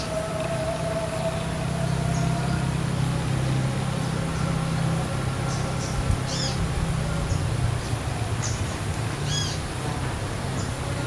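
Several short, high bird chirps a few seconds apart, two of them louder about halfway and near the end, over a steady low engine drone.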